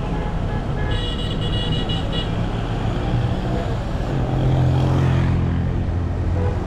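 Street traffic with vehicle engines running. A high-pitched horn sounds for about a second, starting a second in. A heavier engine grows louder around the middle.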